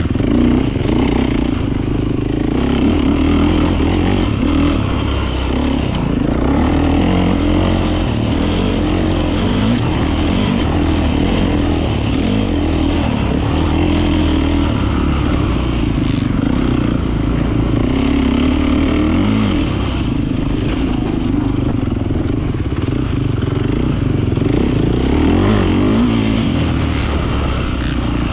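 Beta 450 RX motocross bike's four-stroke single-cylinder engine running hard, its pitch rising and falling continuously as the throttle is worked.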